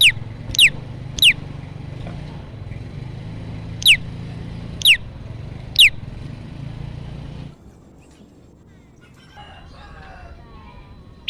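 Prenjak lumut giving sharp, steeply falling call notes, three in quick succession and then three more after a short pause, over a steady low hum. The hum cuts off about two-thirds of the way through, and faint twittering follows near the end.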